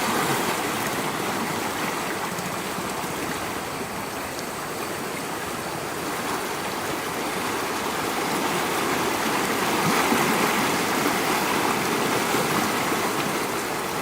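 Steady rush of flowing floodwater, swelling slightly about ten seconds in.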